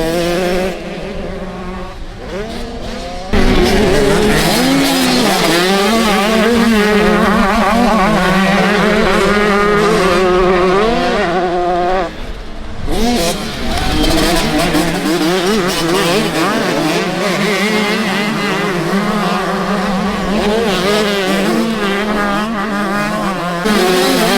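Several motocross bikes racing, their engines revving up and down over one another, over a steady low engine drone; the racket gets louder about three seconds in and dips briefly around the middle.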